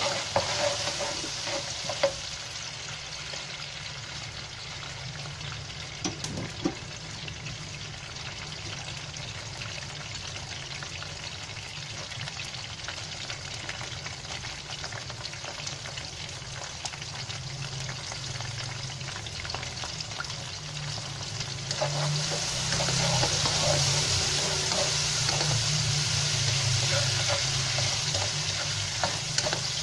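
Whole prawns with chopped garlic and onion sizzling in hot oil in a nonstick wok, with a spatula knocking against the pan a few times early on. The sizzle grows louder about two-thirds of the way through as the contents are stirred.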